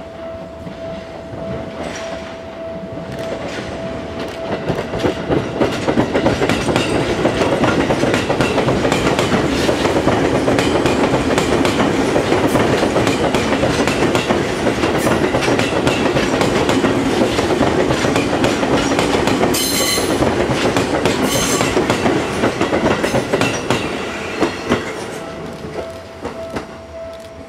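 Seibu 10000 series New Red Arrow electric train passing close by, its wheels clattering over the rail joints. The sound builds over the first few seconds and fades near the end. Two brief high-pitched wheel squeals come about three-quarters of the way through.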